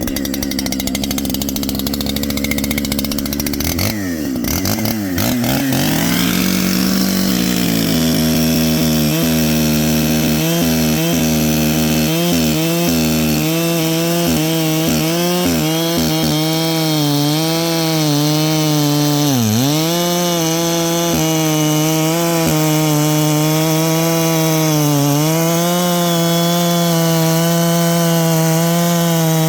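Two-stroke chainsaw running at high revs, with a change and pitch glides about four to seven seconds in. After that it holds a steady high pitch that dips sharply twice, as when the chain bogs down under load in the wood.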